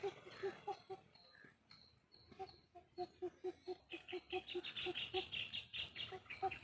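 Birds calling: a low hooting note repeated about four or five times a second, with a short pause after about a second, joined from about four seconds in by a fast run of high chirps.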